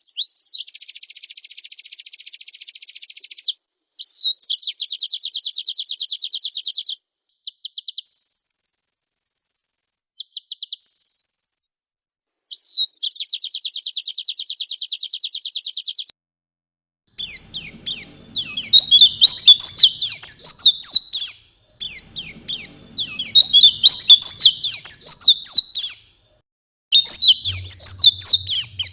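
White-eye (pleci) singing. For the first half come rapid, evenly pulsed buzzy trills and a very high steady trill. From about two-thirds of the way in come three loud bursts of fast, jumbled warbling song, one after another.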